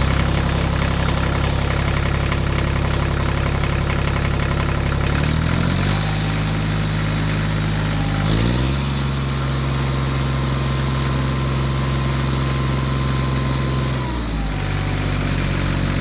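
Tractor engine running, its speed raised in two steps about five and eight seconds in, held, then eased back down near the end.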